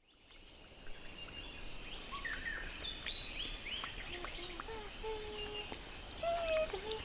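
Forest ambience fading in: many birds chirping and whistling, some calls sliding in pitch, over a steady high chorus of insects.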